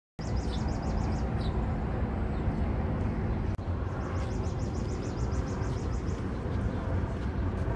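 A bird chirping in quick repeated high notes, twice, over a steady low outdoor rumble that drops out for an instant about three and a half seconds in.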